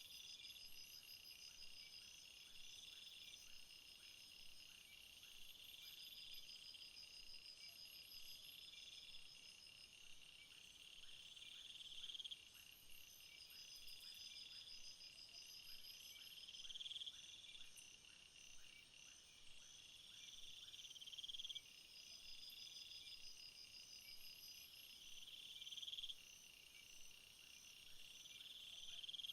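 Faint jungle insect chorus: a steady high trilling, with one call that swells and cuts off sharply about every four and a half seconds, over rapid pulsed chirping higher up.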